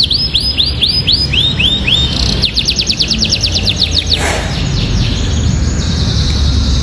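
Domestic canary singing, its song filled with phrases learned from the bar-winged prinia (ciblek): a run of quick, high down-slurred whistled notes, then a faster trill, a falling sweep about four seconds in, and buzzier notes after it.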